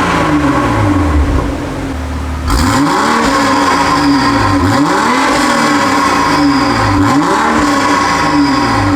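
Toyota Supra A90's 3.0 L B58 turbocharged inline-six revved through an FI valved exhaust with a 200-cell downpipe and TRD cat-back: after a short lull, the engine pitch sweeps up and falls back about four times in quick throttle blips.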